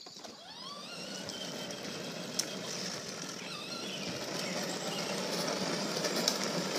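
John Deere ride-on tractor pulling away and driving along a road: a motor whine rises as it starts off, then a steady rolling and running sound that grows gradually louder as it comes closer.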